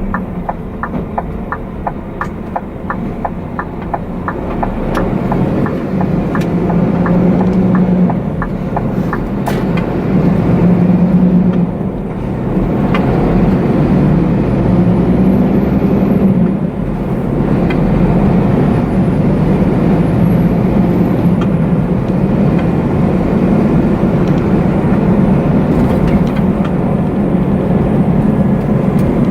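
Truck engine and cab noise while driving, the engine note rising and easing as it pulls. A quick regular ticking, about three a second, runs through the first several seconds, then stops.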